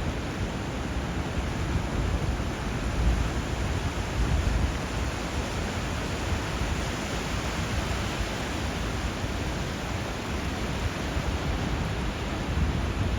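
Steady rushing of sea waves and flowing river water, with low rumbling swells about three and four seconds in.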